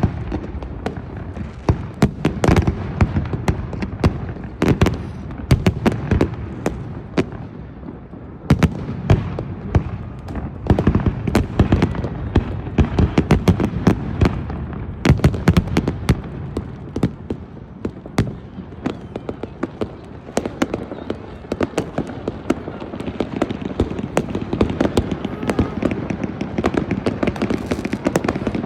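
Fireworks going off: many sharp bangs and crackles at irregular intervals over a continuous rumble of distant bursts.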